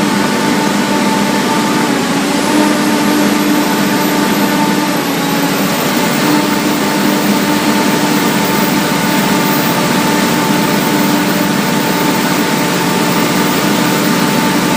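Cummins diesel generator engine running steadily under load from an electrical load bank, a loud, even drone with a constant hum.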